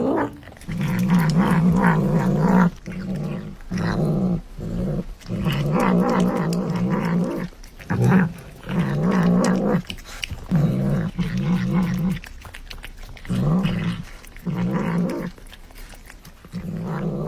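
A pet growling over and over, each growl a rough, low call lasting from about half a second to two seconds, with short pauses between them.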